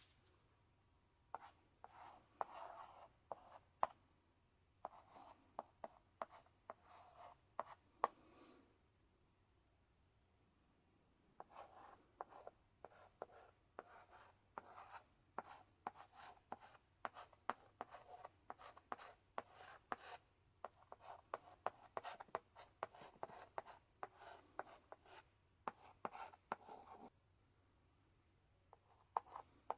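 Chalk in a chalk holder writing on a blackboard: scratchy strokes and sharp taps in bursts, with two short pauses and one long stretch of steady writing.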